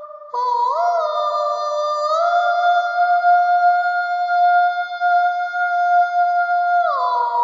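Soprano voice holding long, high, very steady notes with almost no vibrato. It glides up to a higher pitch twice early on, then slides back down near the end.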